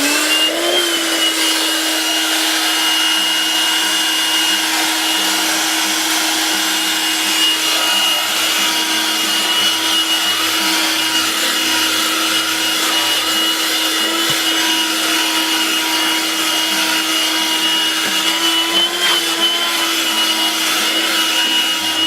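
A 12-volt handheld car vacuum cleaner switches on and runs steadily: a motor whine over a rushing hiss of air. Its pitch wavers briefly near the end.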